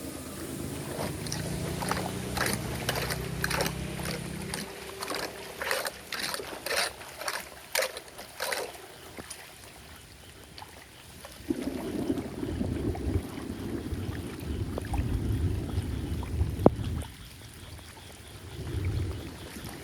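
Flood water splashing and gurgling, with a run of sharp irregular splashes and knocks in the first half, then low rumbling stretches later on.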